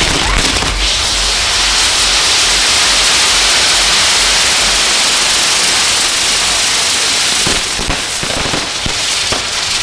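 Ground fireworks going off: a loud, steady hissing spray that fades about three-quarters of the way through into scattered crackling pops.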